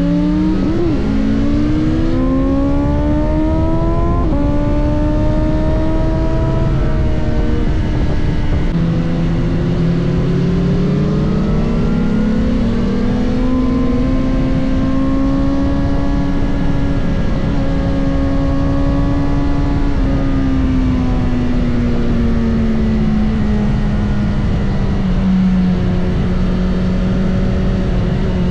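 Onboard sound of a BMW S1000RR's inline-four engine under way on track: the pitch climbs through the gears, with upshifts about 4 and 7 seconds in, climbs again and holds, then falls as the bike slows, over a steady rush of wind.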